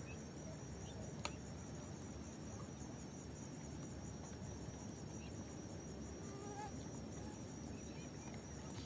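Quiet evening outdoor ambience: a steady high insect trill over a low background rumble. There is a single click just after one second in, and a few faint short bird chirps about six and a half seconds in.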